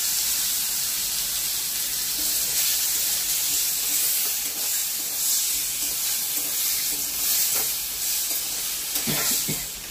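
Potato cubes and chopped tomato sizzling in hot oil in a metal kadai, with a spatula stirring and scraping them around the pan. The sizzle is a steady high hiss.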